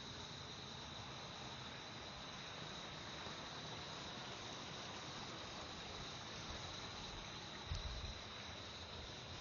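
Insects chirring steadily in one unbroken high tone, over a soft outdoor hiss. A single low thump sounds near the end.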